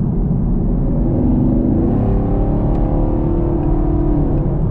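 2021 Camaro SS's 6.2-litre V8 pulling at highway speed, its exhaust note climbing steadily from about a second in and fading near the end. Heavy wind buffeting through the open window runs underneath.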